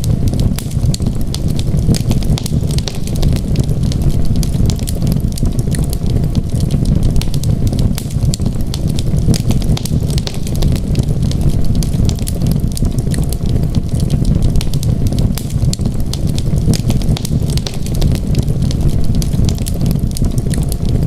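Wood fire crackling in a fireplace, with frequent small irregular pops over a steady low rumble.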